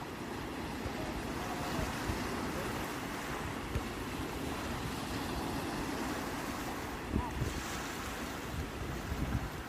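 Sea waves washing onto the shore in a steady wash of surf.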